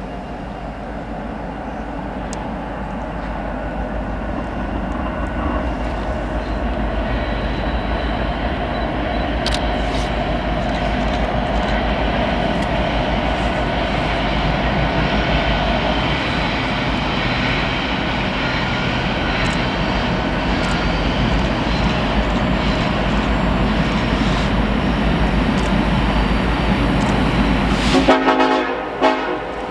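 BNSF grain train's diesel locomotives and freight cars rolling past, a continuous rumble that grows louder over the first dozen seconds and then holds. The sound changes abruptly near the end.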